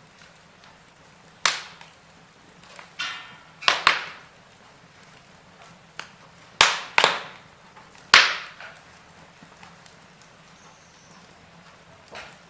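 Wood fire in a fireplace crackling: sharp pops at irregular intervals, the loudest bunched in the middle, over a quiet steady hiss.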